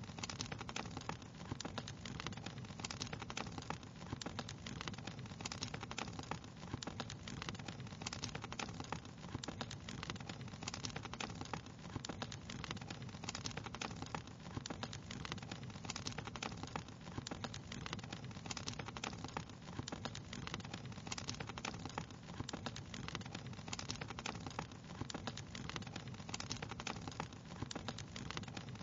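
Fire crackling in a fireplace: a dense, steady run of small irregular pops and snaps over a low, even rush.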